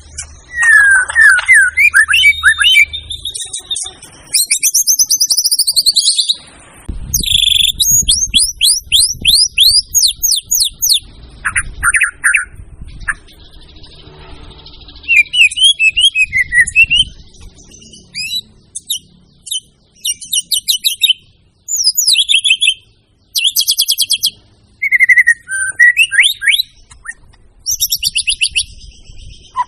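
White-rumped shama (murai batu) singing a loud, varied song: fast trills, whistled phrases and sweeping glides one after another with only short pauses between them.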